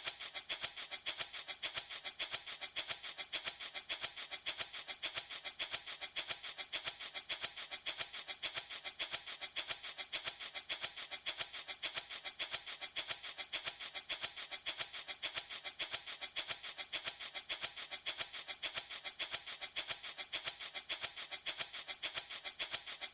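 Handmade baby rattle shaken in a steady, even rhythm of about three shakes a second, each shake a bright, hissy rattle of loose beads or seeds.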